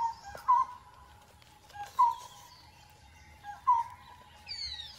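Birds calling: a short pitched note repeats about every one and a half to two seconds, and a falling whistled call sounds near the end.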